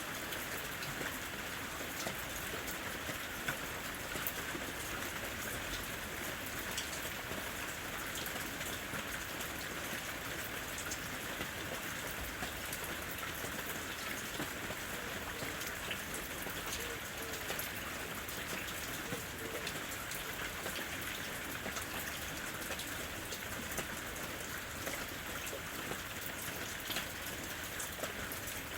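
Steady rain falling, with a constant hiss and many small, close drops pattering on surfaces.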